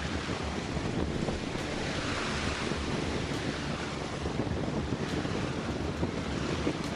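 Strong gusty wind rumbling on the microphone over the rushing wash of sea water past a heeling sailing yacht, with a louder surge of hiss about two seconds in.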